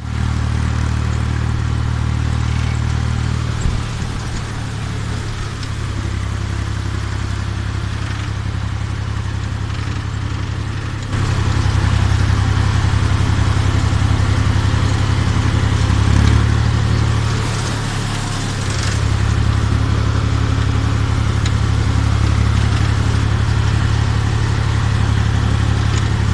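Ursus C-330 tractor's two-cylinder diesel engine running with a steady low throb. It gets louder about eleven seconds in, eases off briefly, then picks up again.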